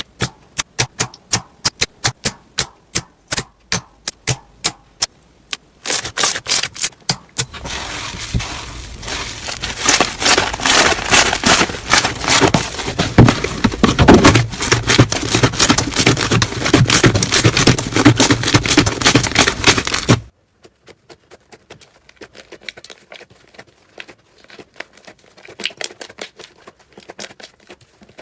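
Slime being handled by hand: first a run of sharp clicking pops, about three a second, then several seconds of dense, loud crackling. It cuts off suddenly about twenty seconds in, and softer scattered crackles follow.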